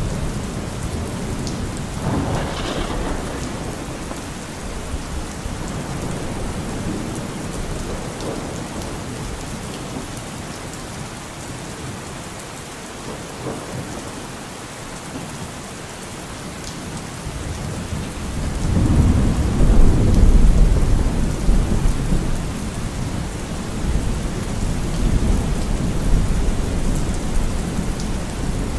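Steady rain falling, with thunder rolling through it: a short roll a couple of seconds in, then a deep rumble that swells about two-thirds of the way through and dies away slowly.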